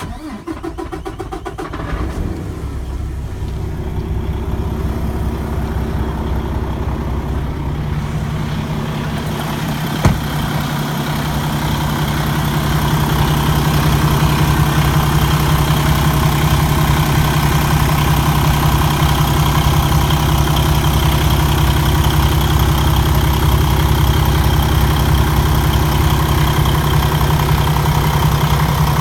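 The 2016 Kenworth T680's PACCAR MX-13 diesel engine cranks and starts within about two seconds. It grows louder over the next dozen seconds, then settles into a steady idle, with one sharp click about ten seconds in.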